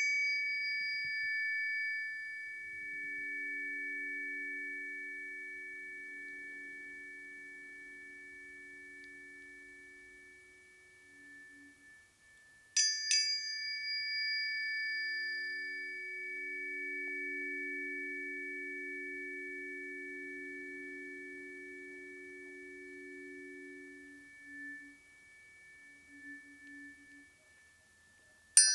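Planetary tuning forks ringing in long, steady high tones that slowly fade, struck again with a bright metallic ping about halfway through and once more at the very end. A pair of lower, softer tones swells in a couple of seconds after each strike and dies away.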